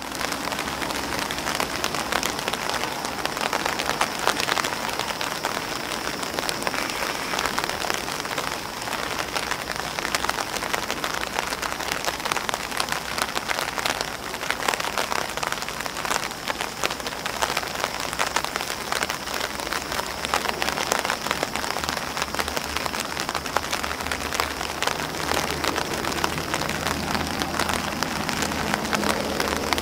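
Rain falling on an umbrella and on grass leaves: a steady, dense patter of many drops, with sharper taps standing out.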